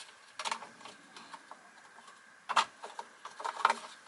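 A few sharp clicks and knocks as vacuum cleaner parts are handled during disassembly: one about half a second in, then a quick cluster in the second half.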